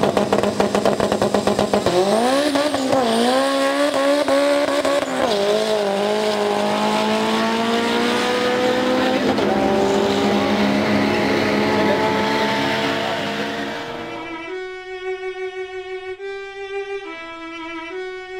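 Turbocharged Honda Civic hatchback launching down a drag strip: the engine stutters at the start line, then revs up with two quick drops in pitch at the gear changes and pulls in a long, steadily rising note as it runs away. About fourteen seconds in, the car fades and music with a bowed-string melody takes over.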